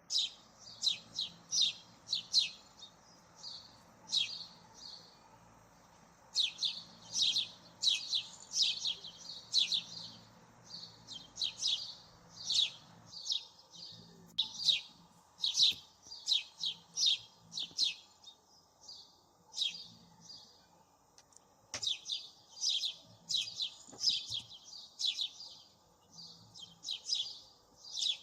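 A small bird chirping over and over, rapid runs of short high chirps with brief pauses between them.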